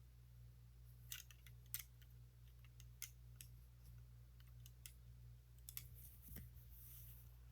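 Scattered faint clicks of plastic Lego pieces being handled and pressed together, over a low steady hum.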